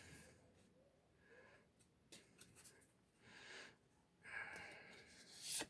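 Quiet handling of trading cards: a few light clicks and soft sliding noises, with breaths close to the microphone and a sharper rustle just before the end.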